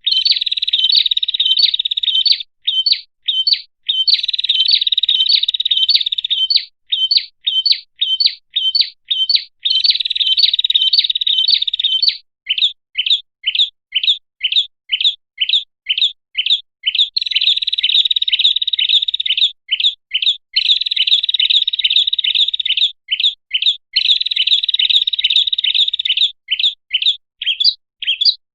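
Prinia (prenjak) lure call: a fast series of sharp chirps, about three a second, alternating with buzzing trills a few seconds long. The cycle repeats as a recording made to draw wild prinias in.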